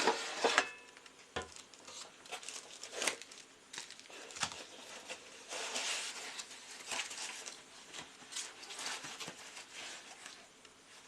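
Packaging rustling and crinkling, with scattered light clicks and knocks as the parts of a new air fryer are handled and unpacked.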